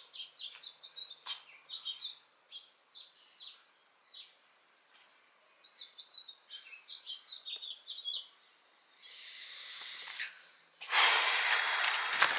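Small birds chirping in quick runs of short high notes, in two bouts with a pause between. Near the end a hiss rises into a loud rushing noise.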